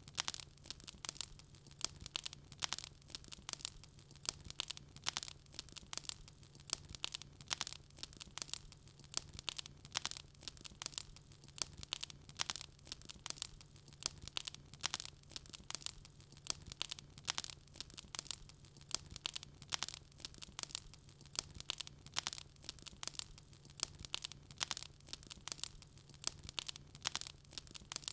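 Wood fire crackling in a fireplace: a dense, unbroken run of sharp snaps and pops, several a second.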